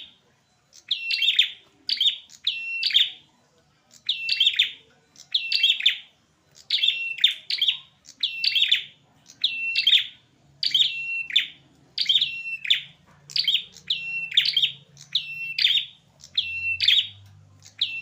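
Male prinia (prenjak) calling over and over, a short sharp chirping phrase repeated about once a second in runs with brief pauses, the call of males fighting.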